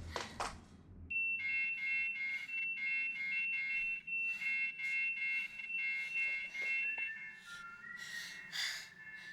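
Electronic two-tone alarm beeping, alternating between a higher and a lower note in a steady rhythm. It starts about a second in and slides to lower notes near the end.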